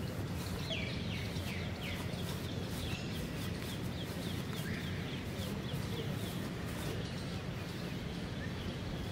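Outdoor ambience: a bird repeating short, falling chirps several times a second over a steady low background rumble.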